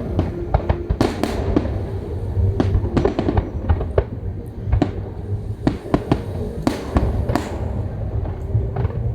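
Fireworks display: many sharp bangs and crackles going off in quick, irregular succession over a constant low rumble.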